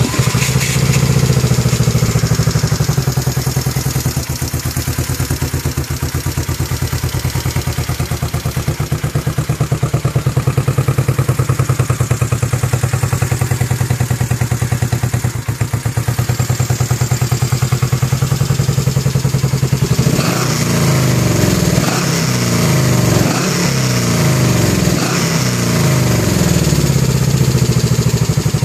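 1969 Honda CB350's air-cooled parallel-twin engine idling with an even beat, with a few quick throttle blips about twenty seconds in that raise and drop the revs.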